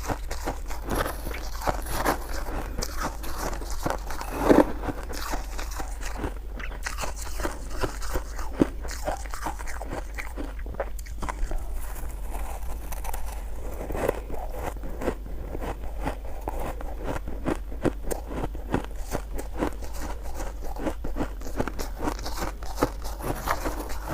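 Close-up biting and chewing of crunchy frozen shaved ice: a dense, continuous run of crisp crunches, with one louder bite about four and a half seconds in.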